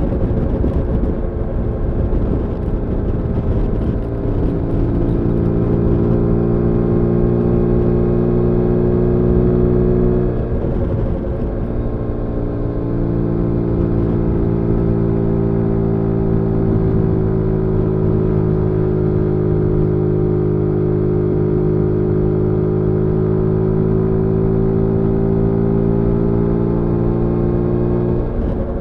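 Zontes G1 125 Scrambler's single-cylinder engine running steadily under way, its note holding even with a slight rise and fall. The note breaks briefly about ten seconds in and again near the end.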